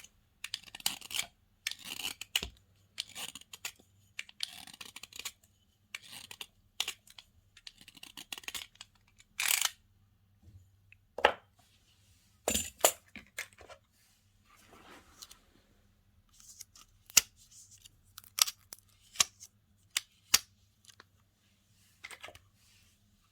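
Slime being handled by hand, giving irregular sticky clicks, crackles and short squelching bursts, with a few sharper pops about 11, 12 and 17 seconds in.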